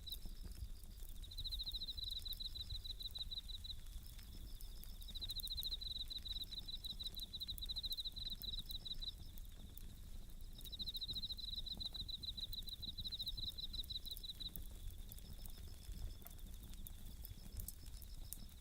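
Japanese bell crickets (suzumushi) singing in repeated high, pulsed trills of a second or two each, with short gaps between them. Faint scattered crackles from a wood campfire and a low rumble run underneath.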